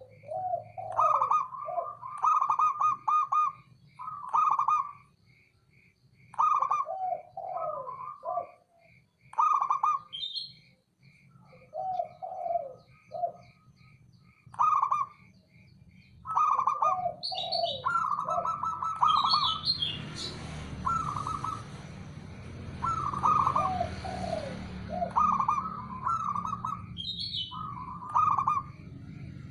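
Zebra dove (perkutut) cooing over and over in short bubbling phrases with pauses between them, the song of a male bird. A fast, steady high chirping runs behind it for much of the time, and a rushing noise comes up about two-thirds of the way through.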